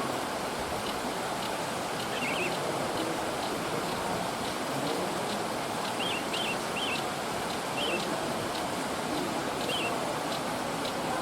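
Wild forest bird giving short twittering calls, about six times, mostly in the second half, over a steady rushing background like a stream.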